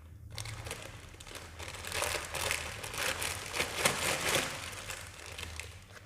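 A Lay's potato chip bag crinkling as it is handled, the crackle building about two seconds in and easing off near the end.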